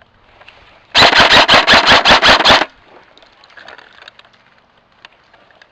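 Airsoft rifle firing a rapid string of about ten shots in under two seconds, close and loud. It stops abruptly, leaving only faint distant clicks.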